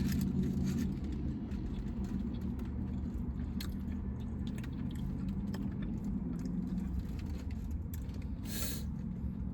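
Steady low rumble of a car idling, heard from inside the cabin, with a few faint clicks and a short hiss near the end.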